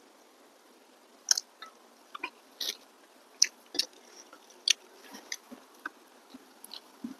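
A person chewing a mouthful of rice and curry eaten by hand, with sharp, irregular wet mouth clicks and smacks, one or two a second.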